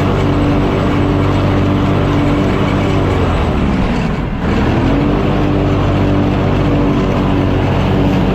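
Mower engine running steadily while cutting grass; about four seconds in its pitch sags briefly and then climbs back up.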